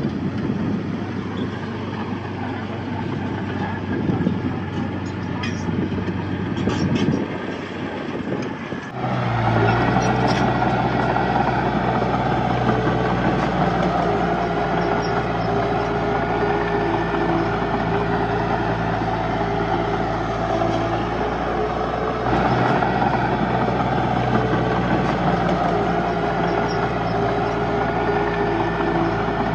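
Heavy diesel earthmoving machinery running. About nine seconds in, the sound changes abruptly to a louder, steady engine note.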